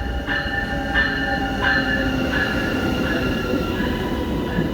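A train moving through a station, its wheels squealing in several steady high tones over a low rumble.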